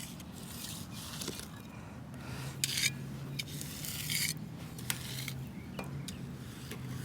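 Steel shovel blade scraping across wet concrete to smooth and level it, in a series of short, irregular rasping strokes. A low steady hum comes in about two seconds in.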